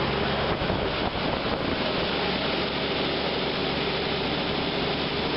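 Jeep CJ7's 258 straight-six engine running steadily on its carburetor with a newly fitted manual choke, running smoothly.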